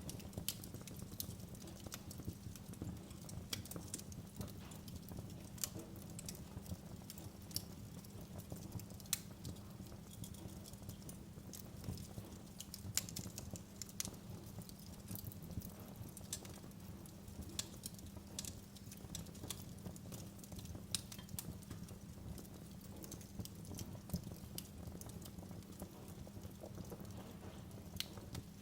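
Wood fire in a fireplace crackling, with irregular sharp pops and snaps over a steady low rumble of flames.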